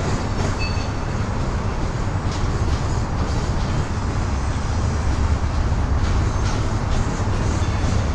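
BNSF coal train rolling past, a steady low rumble and rattle with a few faint sharp clicks scattered through it.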